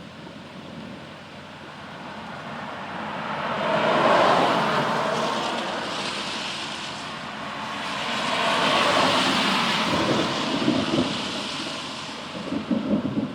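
Rolling thunder: two long rumbles that swell and fade, the second starting about five seconds after the first, with a few sharper cracks near the end.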